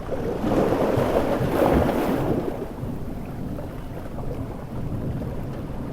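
Stormy sea and heavy rain: a big wave surges and breaks in the first two seconds or so, then fades into steady surf and rain noise.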